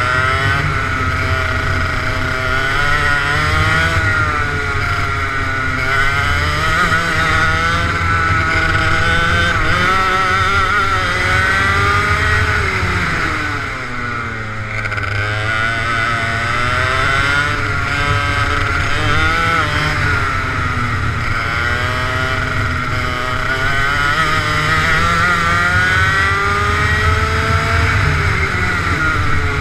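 Kart engine running hard, its pitch climbing and falling again and again as it accelerates and backs off for corners. There is a deeper drop in pitch and level about halfway through.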